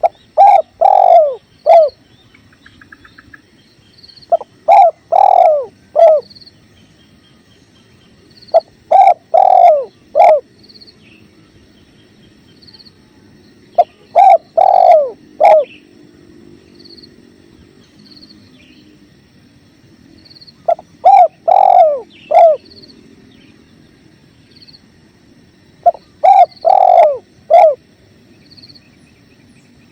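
Spotted dove (tekukur) cooing: six phrases of several low, rounded coos, each phrase about two seconds long, repeated every four to six seconds. Under it runs a faint steady rush of flowing river water, with faint high chirps.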